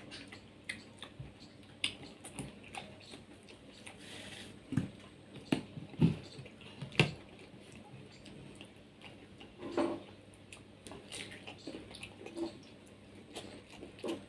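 Close-up mouth sounds of eating soft, juicy toddy palm fruit (ice apple): wet chewing and slurping with scattered small clicks and a few louder wet smacks.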